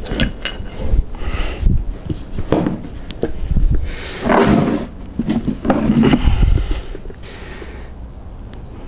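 Metal tyre levers clinking against a dirtbike wheel rim, then two long, loud straining grunts from a man heaving the tyre off the rim, around four and six seconds in.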